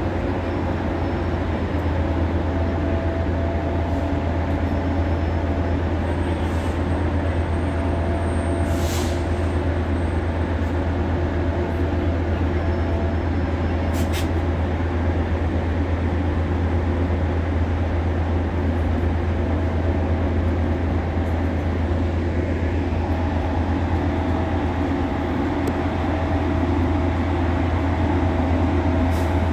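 Steady low hum of an idling Metrolink diesel commuter train standing at the platform, with a thin steady whine above it that comes and goes.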